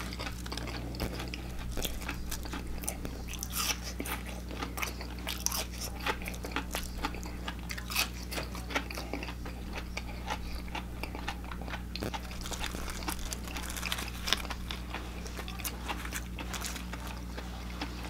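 Close-up crunchy chewing of crispy fried tater tots: a continuous run of short, sharp crackles and crunches.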